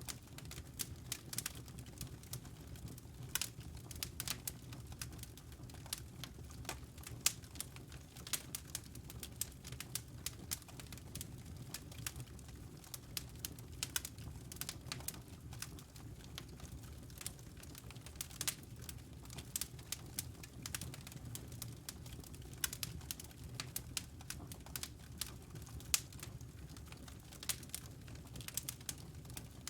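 Wood fire crackling: irregular sharp snaps and pops, several a second, over a low steady rumble.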